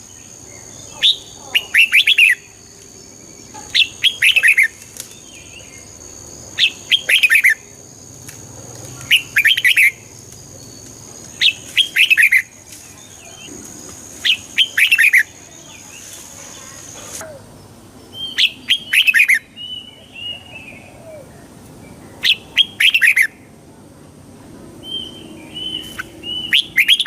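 Red-whiskered bulbul singing its short, bright phrases over and over, about one every two to three seconds. Each phrase is a quick run of falling whistled notes, with softer calls in the gaps later on.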